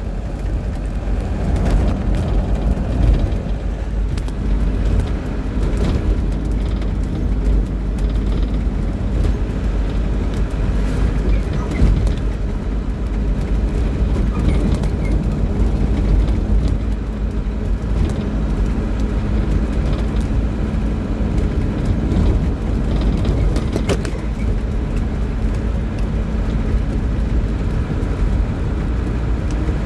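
Steady low rumble of a running vehicle, with occasional light knocks.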